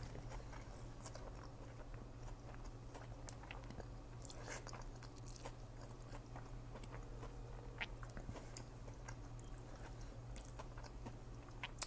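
A man chewing a mouthful of crispy fried fish sandwich: faint wet chewing with small crunches and clicks, over a low steady hum.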